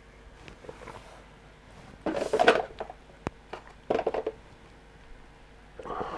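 Paint pots clattering and clicking against each other on the hobby bench as they are picked through: two short bursts of clatter about two seconds apart, with a single sharp click between them.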